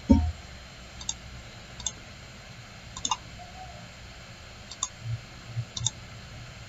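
Computer mouse clicks, about six short sharp clicks at irregular intervals, with a dull knock on the desk just after the start.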